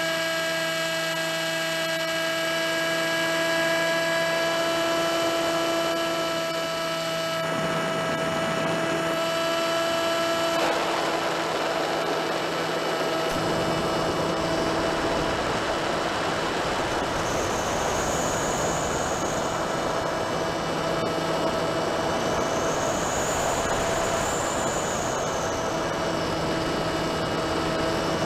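HobbyKing Drifter RC plane's electric motor and propeller running, a steady whine with many overtones. A growing rush of air and propeller noise builds in steps after about seven, eleven and thirteen seconds. High gliding whistles rise and fall a few times in the second half.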